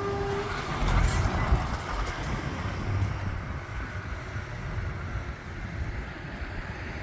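Heavy lorry's diesel engine rumbling as it drives by, loudest a second or two in and then slowly fading.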